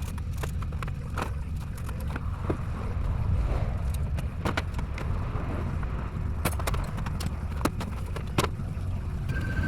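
Workshop noise: a steady low rumble with scattered sharp clicks and knocks.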